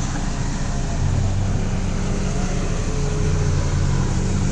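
Off-road vehicle's engine running steadily, its hum growing stronger about a second in.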